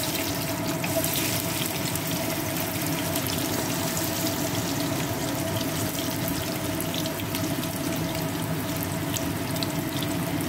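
Thinly sliced onion sizzling in hot vegetable oil in a pan: a steady hiss flecked with small pops, over a steady low hum.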